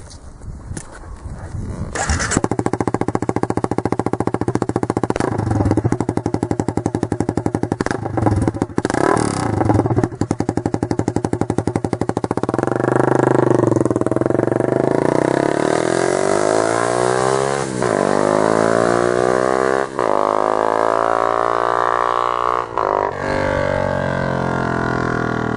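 Honda CBR250 motorcycle's four-stroke engine comes in loud about two seconds in, with a few short throttle blips. It then pulls away, the pitch rising steadily in each gear and dropping back at three gear changes near the end.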